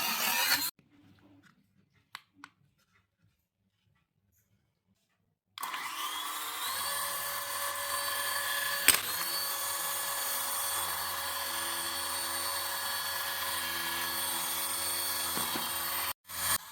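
A small electric motor starts about five and a half seconds in, spinning up with a rising whine. It then runs steadily for about ten seconds with one sharp click partway through, and cuts off near the end. Before it, a brief burst of noise at the start is followed by a few faint clicks.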